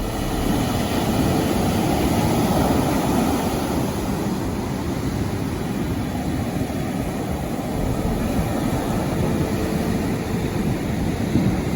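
Ocean surf breaking and washing up a sandy beach: a steady rushing noise, heaviest in the low range.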